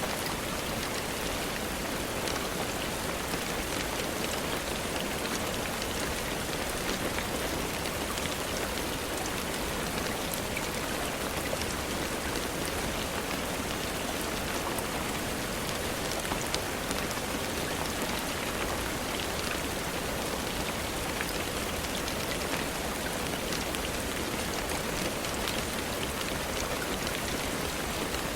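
Steady rain falling, a dense even patter of raindrops with many small distinct drop ticks throughout.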